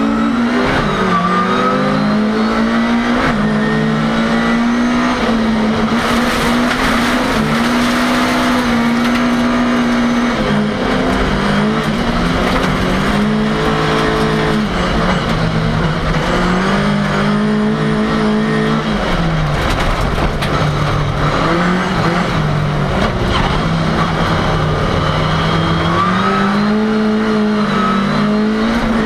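Ford Cortina race car's engine heard from inside the car at racing speed, its pitch climbing and dropping back again and again through gear changes and corners.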